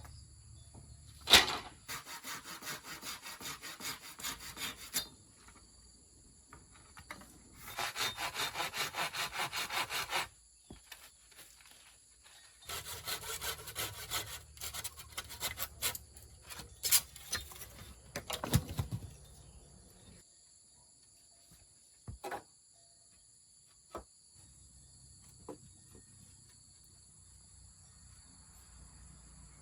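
Hand saw cutting wood in quick back-and-forth strokes, in three bouts with pauses between, and a sharp knock about a second in. The last third is quieter, with a few single knocks.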